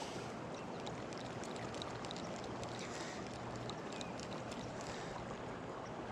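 Steady rush of a swift river current flowing past the bank, with a few faint small ticks on top.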